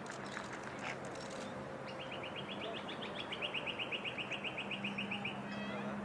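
A small bird's rapid trill, about eight short high notes a second, running from about two seconds in until just past five seconds, with a few scattered chirps before it.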